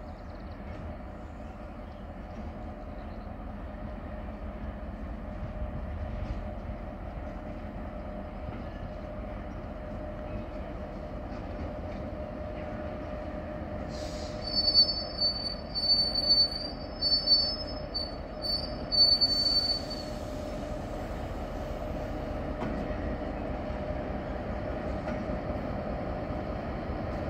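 Freight train hauled by SNCF Fret BB 75000 diesel locomotives running past, with a steady rumble that slowly grows louder. About halfway through, its wheels squeal high-pitched in several bursts for some six seconds.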